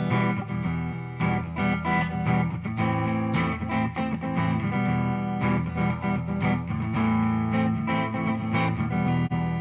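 Guitar strummed on its own in a steady beat, playing the chord accompaniment of a minor-key folk song with no singing.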